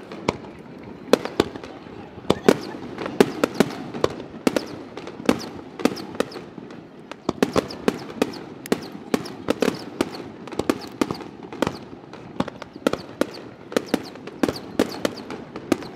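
Aerial firework shells bursting in rapid succession, several sharp bangs a second overlapping into a continuous din.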